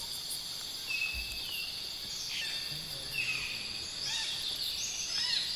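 Tropical rainforest insect chorus at night: a steady shrill buzzing at several high pitches, with short chirping calls from other animals about a second in, in the middle, and a cluster of quick falling chirps near the end.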